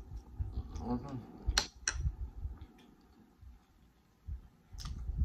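Close-up eating sounds of a man chewing a mouthful of creamy pasta: soft wet mouth clicks and smacks, with a short voiced hum about a second in. There is a brief pause in the chewing near the middle.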